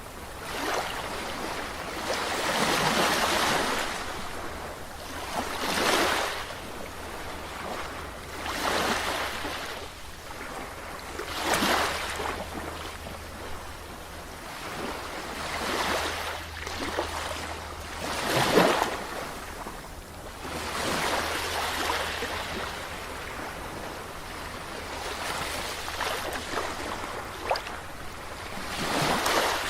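Ocean waves surging and washing in, one swell of noise every two to three seconds, some louder than others.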